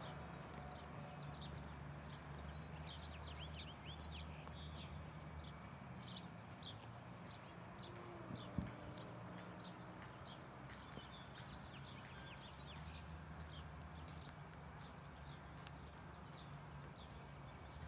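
Songbirds chirping in many short, quick calls over a faint, steady low rumble. A single brief knock about eight and a half seconds in.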